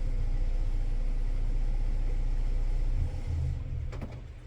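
Old Ford tractor engine running with a steady low rumble, then shut off about three seconds in, the sound dying away over the next second or so with a faint click near the end.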